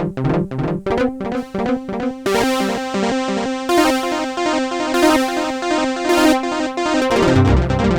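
IK Multimedia Uno Synth PRO analog synthesizer playing one of its factory presets: a quick, repeating sequenced pattern of short pitched notes. About two seconds in it turns brighter and fuller, and deep bass notes come in near the end.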